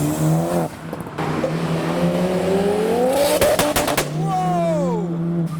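Modified turbocharged car accelerating hard: the engine note climbs, breaks briefly at a gear change about half a second in, then climbs again for a couple of seconds. It ends in a run of sharp pops and cracks about three and a half seconds in as the throttle closes, followed by a falling whistle. It sounds crazy, like a big turbo.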